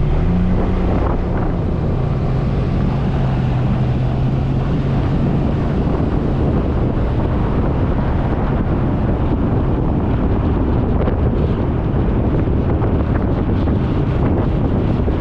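Suzuki Burgman 400 scooter's single-cylinder engine running steadily under way, its hum stepping up briefly near the start, with wind rushing over the camera microphone that grows to cover the engine after the first few seconds.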